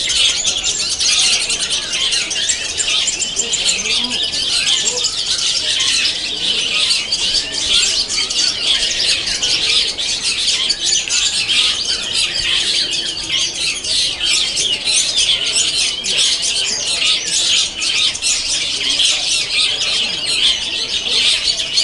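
Many caged long-tailed shrikes (cendet) singing at once, a dense, continuous mass of high chirps, chatter and mimicked calls with no pause.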